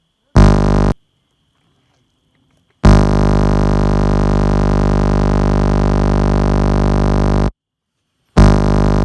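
Loud, steady electronic buzz on a phone recording, low-pitched and full of overtones. It switches on and off abruptly: a short burst under a second long, a long one of about four and a half seconds, then another starting near the end.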